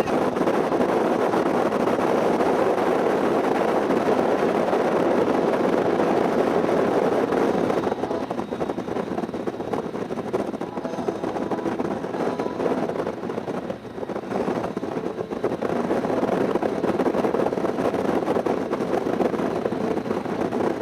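Motorcycle riding on the road: engine and wind noise rushing over the microphone. The sound eases off and becomes uneven about eight seconds in, dips lowest a little later, and builds back up near the end.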